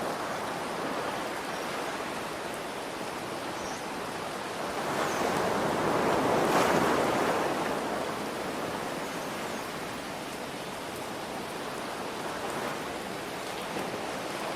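Ocean surf with rain: a steady wash, with one wave swelling to its loudest about halfway through and then ebbing away.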